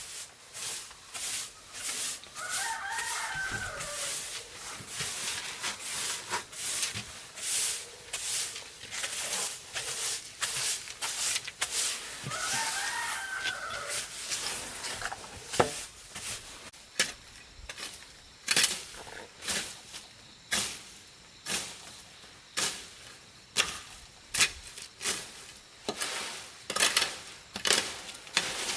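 A rooster crowing twice, each crow about a second and a half long. Sharp knocks run through the whole stretch and settle into about one a second in the second half.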